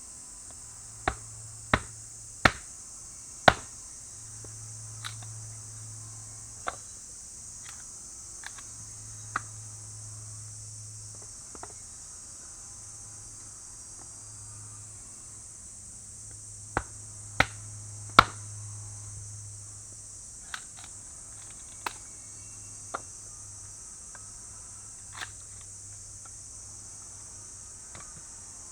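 Steady high-pitched chorus of crickets and other insects, broken by sharp knocks: four loud ones in the first few seconds, a few fainter ones, then another loud group of three a little past halfway.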